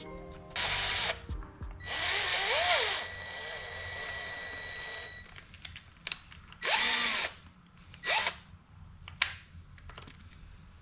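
Handheld power tool run in several short bursts, its motor whirring up and winding down each time; one burst is longer, about a second, and a thin steady whine hangs on for a few seconds after it.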